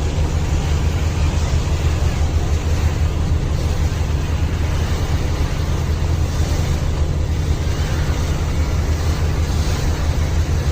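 Steady low drone of a river boat's engine running at constant speed, with wind and water noise over it.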